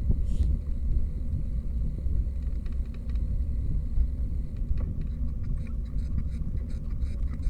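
Steady low rumble of wind buffeting the microphone and road noise on a moving bicycle, with light clicks and rattles from about five seconds in.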